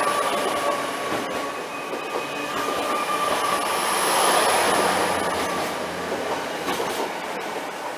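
Two coupled Class 802 bi-mode trains pulling out on their underfloor diesel engines, a steady rumble of engines and wheels with a thin high tone running through it. It swells about four seconds in, then starts to fade near the end as the train draws away.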